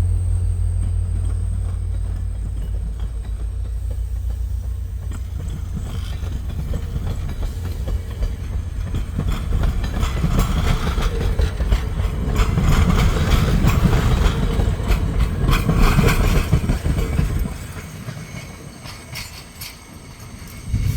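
VIA Rail passenger train pulling away: a steady diesel locomotive drone, then the cars rolling past with clicking wheels on the rails. The rolling grows louder through the middle and falls away fairly suddenly about three-quarters of the way through.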